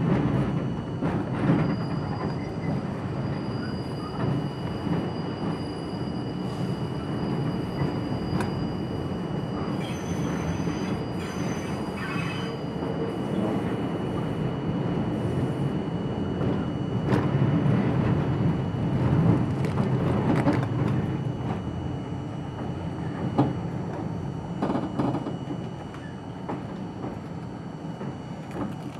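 R42 subway car running on the rails, heard from inside the car: steady wheel-on-rail rumble with knocks over rail joints and thin, high wheel squeal, which is strongest in the first half. It grows quieter near the end.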